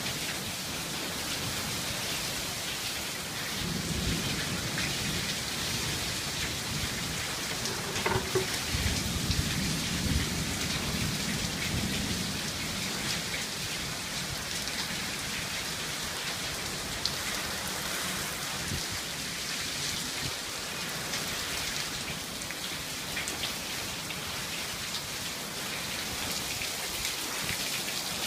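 Steady rain falling, with a low rumble of thunder from about four seconds in until about twelve seconds in.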